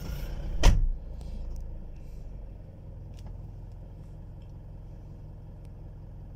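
Car engine running low and steady, heard from inside the cabin, with one loud, sharp knock less than a second in.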